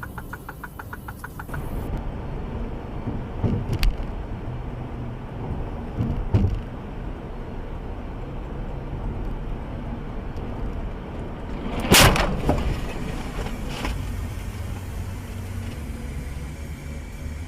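Car road and engine noise from inside a moving vehicle, a steady low rumble, with a few knocks and one loud, sharp impact about twelve seconds in.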